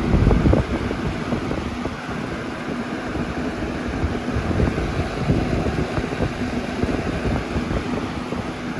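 A 1995 Windmere box fan with a brace blade running: steady rushing air that buffets the microphone, over a steady motor hum.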